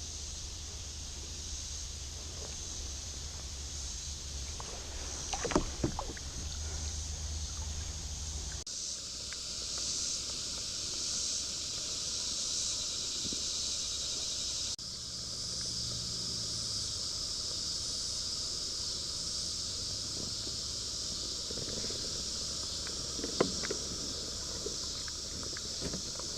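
Kayak on the water: paddle strokes and water sounds with a couple of sharp knocks, about five seconds in and near the end, over a steady high hiss.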